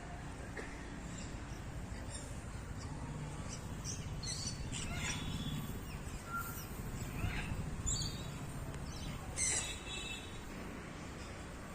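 Birds in an aviary chirping and calling, short high calls scattered throughout with clusters about five, eight and nine and a half seconds in, over a steady low rumble.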